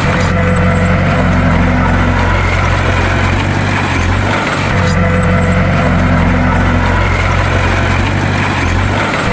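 Heavy bulldozer diesel engine running steadily under a low, even drone. The sound shifts in the same way about every four and a half seconds, at the start, near the middle and near the end.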